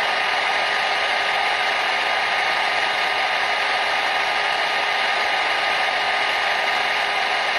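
Hair dryer running steadily: a constant rush of air with a faint, even whine from its motor and fan.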